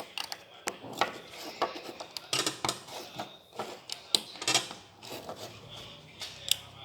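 Plastic building bricks clicking and clattering as they are handled and fitted together, in an irregular run of small sharp clicks.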